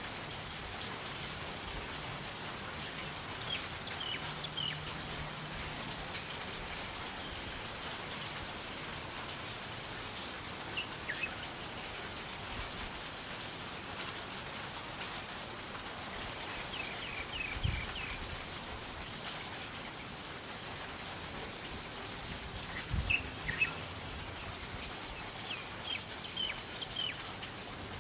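Steady rain hissing, with small birds giving short high chirps every few seconds, in a cluster near the end. A couple of brief low thuds come about two-thirds of the way in.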